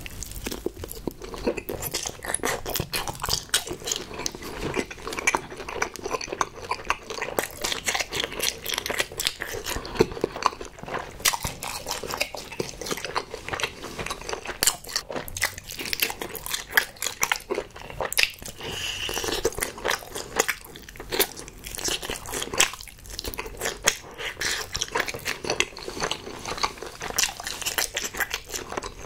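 A person biting and chewing close to the microphone, eating a sauce-glazed rice-cake skewer: a close, unbroken stream of bites, chews and crunches.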